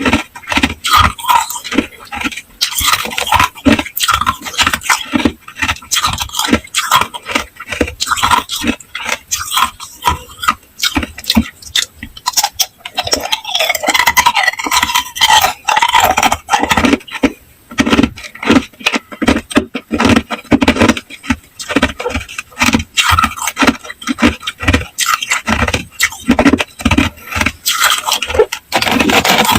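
Hard, clear ice cubes being bitten and chewed: rapid, irregular crunching and cracking that goes on without a break.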